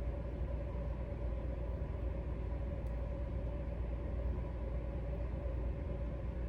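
Steady low rumbling noise with a faint, constant hum over it, unchanging throughout.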